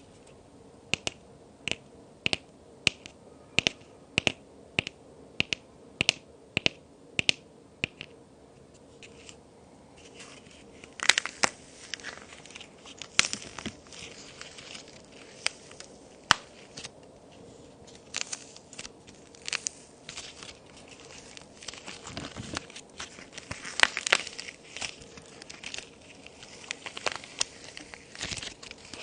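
Handmade plaster-and-clay toy cookies being handled: a run of evenly spaced sharp clicks, about one every half second, then irregular snapping, cracking and crumbling as the pieces are broken apart.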